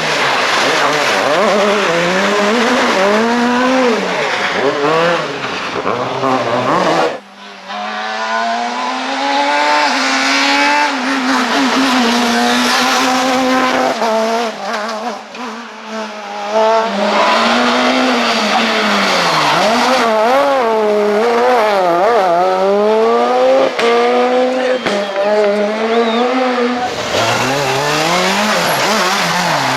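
Super 2000 rally cars' two-litre four-cylinder engines revving hard, the pitch climbing and dropping again and again through gear changes and braking. The sound changes abruptly about seven seconds in and again near the end as one car gives way to another.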